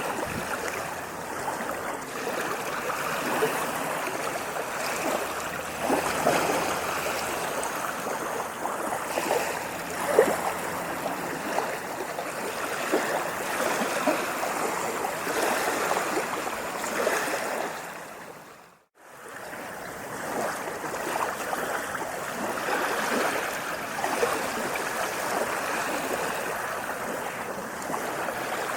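Moving water splashing and gurgling steadily, with many small splashes throughout. It fades down to silence for an instant about two-thirds of the way through, then fades back up.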